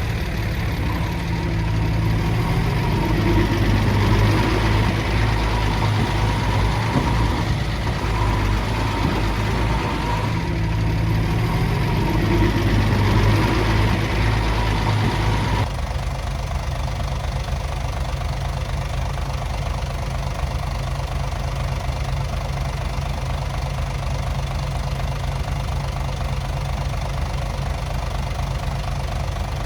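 Diesel engine of heavy earthmoving machinery running with a steady low drone. About halfway through the sound changes abruptly to a lower, more even engine sound.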